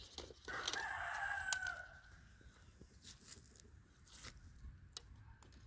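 A rooster crowing once, starting about half a second in and lasting about a second and a half, trailing off on a falling note. Faint scattered clicks follow.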